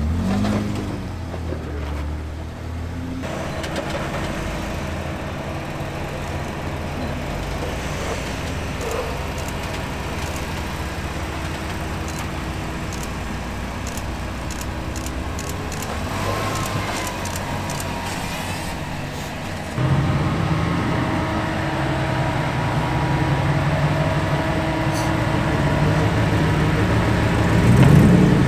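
Jeep engine running steadily at low speed, stepping up louder and deeper about twenty seconds in.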